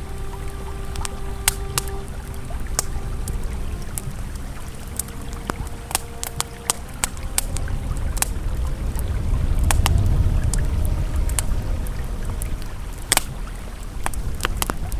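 Campfire crackling with scattered sharp pops, one louder pop about 13 seconds in, over the steady rush of a flowing river that swells a little in the middle. Faint sustained ambient music tones hold underneath.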